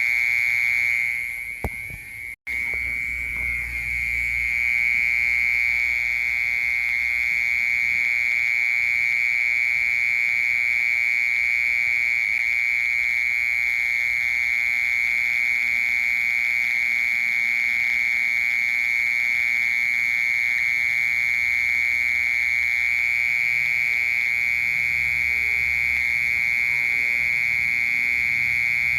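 Cricket trilling: one continuous, steady, high buzzing trill held on a single pitch. It breaks off briefly about two seconds in, then carries on unchanged.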